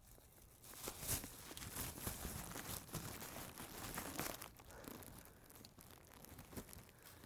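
Crinkling and rustling of plastic litter and a trash bag being handled, busiest from about half a second in and easing off after about five seconds.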